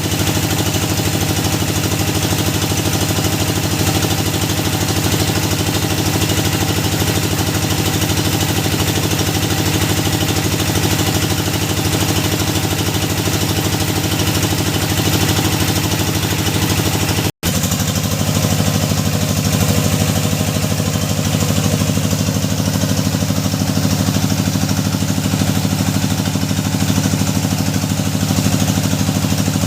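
Engine of a hydraulic deep-well drilling rig running steadily at a constant speed. It breaks off for an instant about 17 seconds in and resumes with a slightly different tone.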